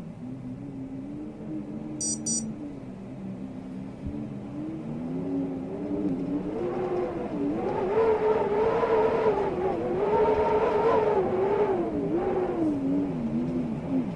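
Storm wind howling in gusts, a wavering moaning tone that rises in pitch and grows louder from about halfway, then sinks again near the end.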